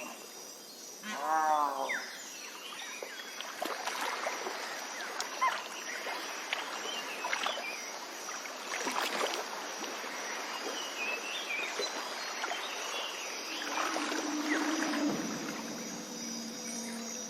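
Mangrove swamp ambience: a steady natural background hiss with scattered short animal calls and clicks, and a wavering pitched call about a second in.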